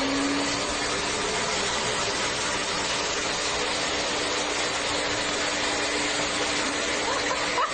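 Steady rushing noise of a running machine, with a faint low hum.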